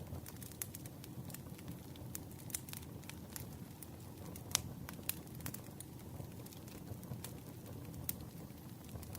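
Campfire crackling: a steady low rumble of burning wood with scattered sharp pops and snaps, the loudest pop about halfway through.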